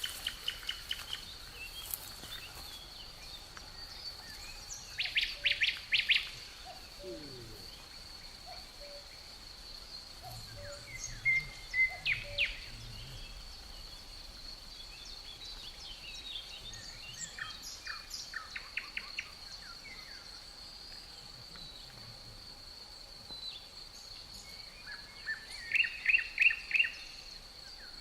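Birds singing outdoors in bouts of quick, rapidly repeated chirping notes: three loud bursts, about five seconds in, around eleven to twelve seconds and near the end, with scattered quieter chirps between. Under them runs a steady, high, thin insect drone.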